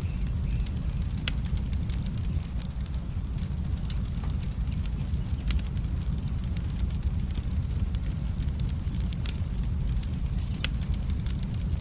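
Wood fire in a fireplace crackling, with irregular sharp pops over a steady low rumble. The loudest pops come about a second in and near the end.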